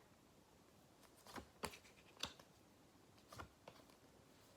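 Near silence with a few faint, short clicks and rustles of paper flashcards being handled.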